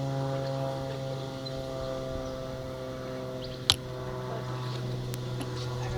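Steady low hum of several even tones, holding one pitch, with a single sharp click about three and a half seconds in.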